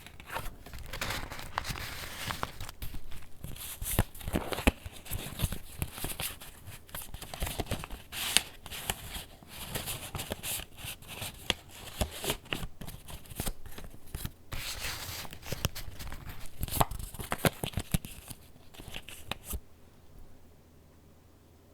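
Paper pages of a handmade junk journal being turned and handled: continuous rustling and crinkling with many short flaps and taps. It dies away near the end.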